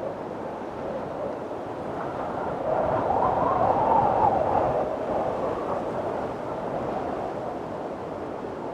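Strong wind blowing in a windstorm, a steady rushing that swells into a louder gust about three seconds in, with a faint whistle at its height, then eases back.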